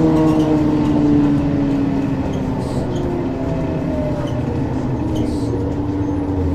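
Ikarus 435 articulated diesel bus running on the move, its engine note slowly falling as the bus eases off and slows.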